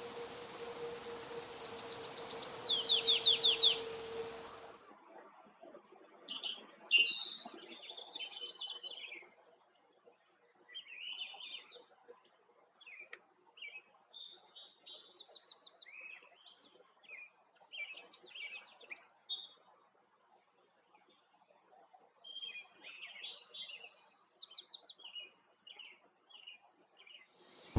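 Songbirds singing. First a rapid trill falls in pitch over a steady hum and hiss; then, after an abrupt change to a quieter background, come many short, varied song phrases and chirps.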